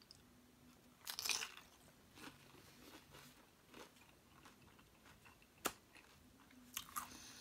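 Tortilla chips of a loaded nacho being bitten and chewed: a crunch about a second in, then quieter chewing with scattered small crunches and one sharp click shortly before the end.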